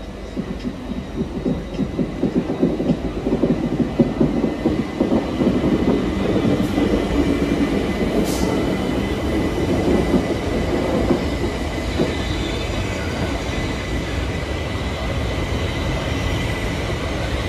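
Southeastern electric multiple unit train running along the platform and past close by, its wheels clattering rhythmically over the rail joints, loudest in the first half, with a brief hiss about eight seconds in.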